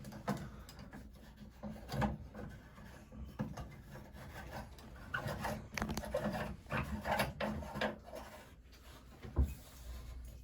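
Parts of a shower head being handled and screwed onto their fitting: irregular rubbing and scraping with small clicks and knocks.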